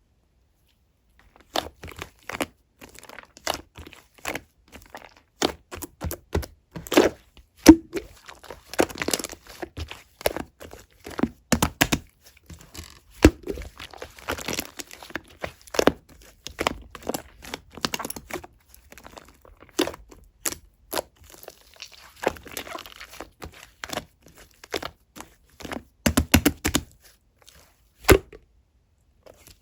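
Hands working pink clear slime mixed with shaving foam, giving irregular sharp clicks, pops and crackles as it is pressed and stretched, starting about a second and a half in.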